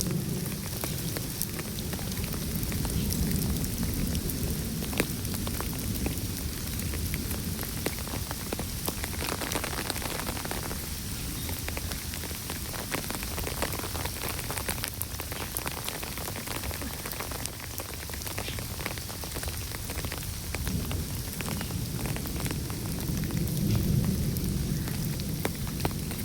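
Steady rain falling, with many separate drop ticks through it; a low rumble swells near the end.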